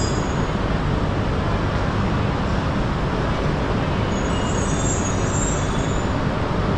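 Shinkansen train running, a steady loud rushing noise with a faint high-pitched whine near the start and again about five seconds in.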